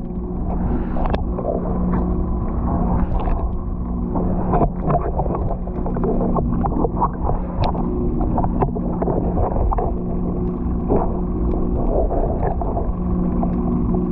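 Water lapping and sloshing against a boat's hulls, over a steady low mechanical hum.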